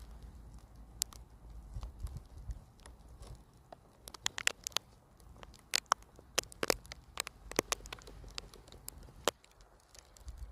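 Irregular sharp clicks and crackles, crowded together in the middle stretch and stopping about a second before the end, over a faint low rumble.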